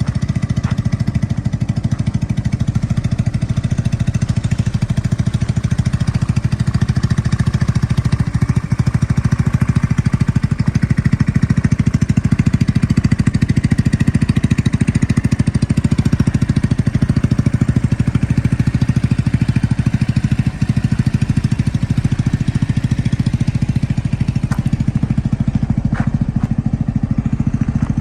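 Icebear three-wheeler motorcycle engine running steadily at an even pace.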